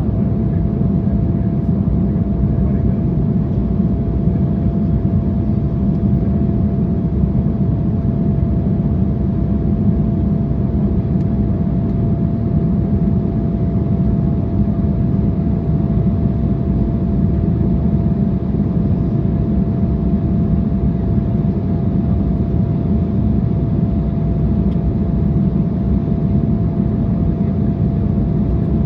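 Steady cabin noise of an Embraer 175 airliner in flight: the rush of air and its two turbofan engines, with a thin, steady hum running through it.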